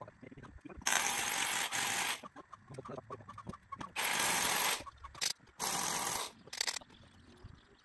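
A hammer drill boring holes into concrete for rebar anchors, run in three bursts of about a second each, with quieter clicks and handling in between.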